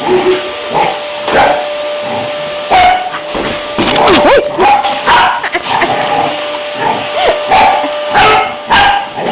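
A dog barking repeatedly and excitedly at a running vacuum cleaner, about a dozen barks at irregular spacing, with a couple of yelping, whining cries around the middle; the vacuum cleaner's motor hums steadily underneath.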